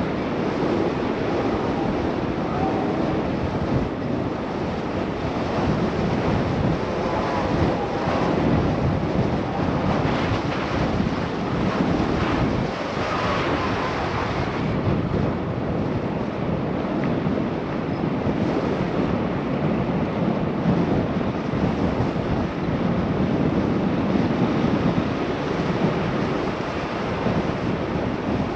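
Wind noise rushing over a bike rider's GoPro microphone while cycling: a steady, dense rush that swells and eases a little.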